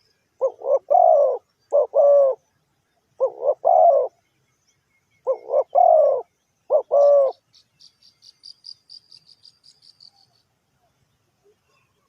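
A spotted dove cooing: five phrases of two or three low, mellow coo notes in quick succession, a second or so apart. After the last phrase a faint, fast, high ticking trill runs for about two and a half seconds.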